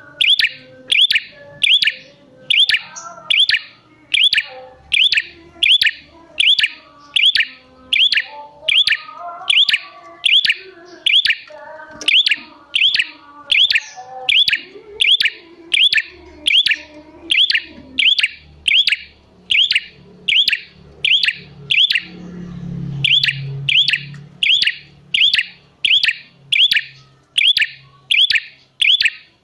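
Prinia (prenjak) calling in a steady loop of sharp, high chip notes, about three every two seconds, with softer, lower chirping behind them. A low hum swells briefly about three-quarters of the way through.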